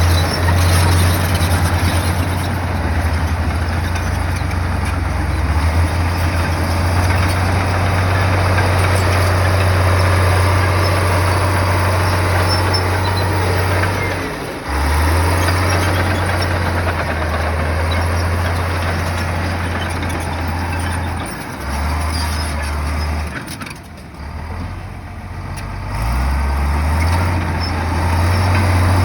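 Bulldozer's diesel engine running with a steady low drone, easing off briefly about halfway and again for a few seconds near the end before picking back up.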